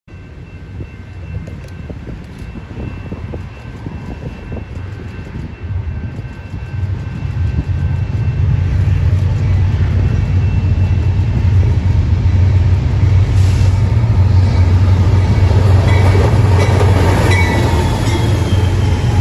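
Diesel-hauled train approaching and passing: a growing rumble that swells over the first eight seconds, then holds as a steady heavy low rumble as the locomotives and cars go by.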